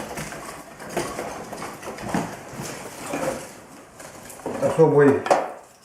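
Thin pine kindling splinters knocking and clacking against each other and the firebox as they are laid in by hand, in irregular light knocks.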